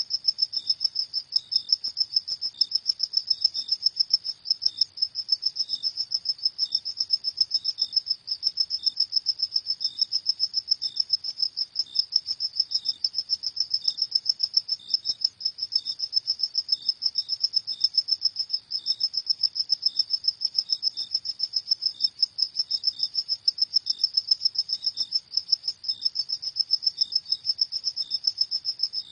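Crickets chirping in a fast, even, unbroken rhythm of high-pitched pulses, with a second, fainter chirp sounding at regular intervals a little lower in pitch.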